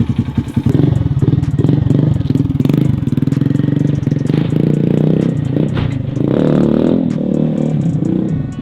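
Honda Monkey 125's single-cylinder four-stroke engine through a custom aftermarket exhaust, putting along evenly, then getting louder about a second in as it pulls away, with the revs rising and falling as it rides. The engine is still warming up and, by the builder's account, needs a tune.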